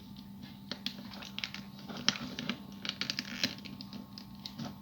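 Faint, irregular light clicks and taps of small plastic toy parts being handled, with a faint steady hum underneath.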